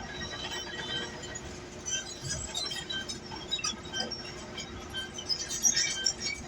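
Komatsu bulldozer working, with its engine running steadily under many short metallic chinks and squeals from the steel tracks. The squeals come thickest near the end.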